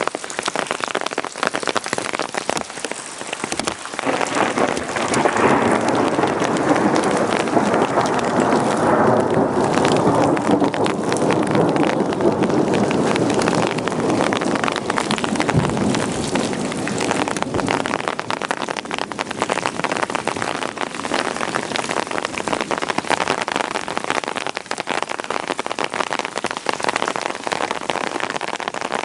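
Heavy rain pattering on surfaces, a dense hiss of drops that grows louder and fuller for several seconds in the middle before easing back.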